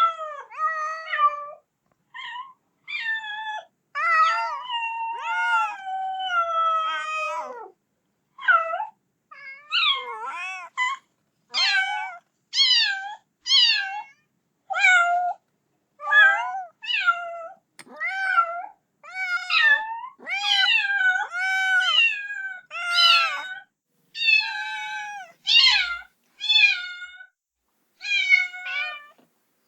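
Kitten meowing over and over, calling for its mother, in high-pitched cries about one a second, with a few longer drawn-out calls several seconds in.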